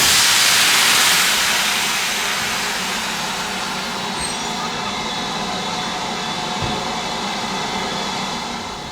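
Steam locomotive letting off steam: a sudden loud rush of steam that dies down over about two seconds into a steady hiss.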